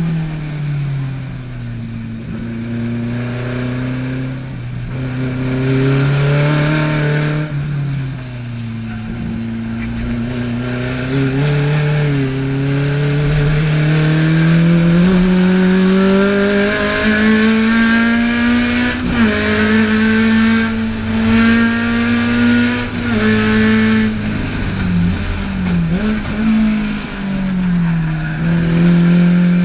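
A tuned Alfa Romeo twin-cam four-cylinder engine in a GT Junior race-prepared to rev towards 9000 rpm, heard from inside the cabin while lapping a track. Its note drops and holds, then climbs steadily to high revs, with quick dips and rises near the end as the driver lifts and shifts.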